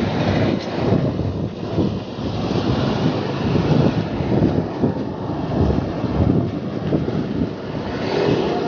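Wind buffeting the microphone of a moving bicycle: a steady, fluttering rumble. A motor vehicle comes up near the end.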